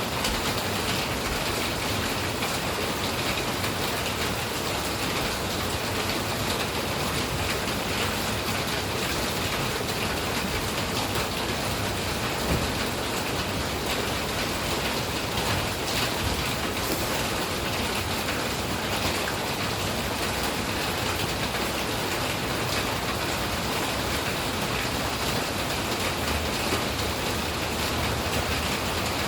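Steady rain falling, a dense, even hiss of drops pattering on surfaces.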